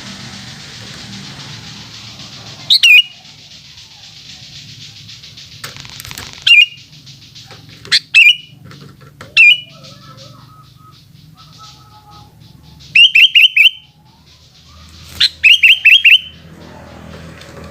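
Sooty-headed bulbul calling with loud, short notes that drop in pitch. The notes come singly every second or two, then in two quick runs of four or five notes near the end.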